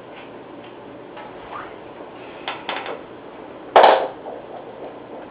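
Faint scratching and ticking of hand-carving in basswood, then two quick knocks about two and a half seconds in and a louder, sharp knock a little before four seconds.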